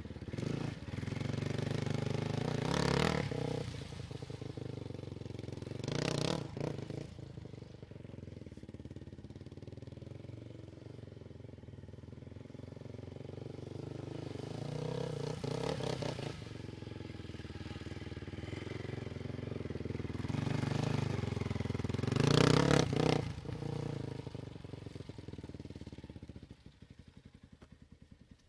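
Polaris 500 quad bike engine running and revving up in several bursts as it is ridden, the loudest about two-thirds through, then fading away near the end.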